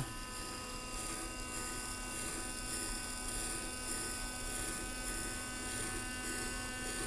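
Small electric gear motors driving the miniature machine-shop models, running with a steady buzzing whine made of several held tones.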